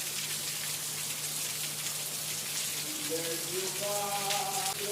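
Steady rain falling and pattering on surfaces. From about three seconds in, a voice is heard under the rain.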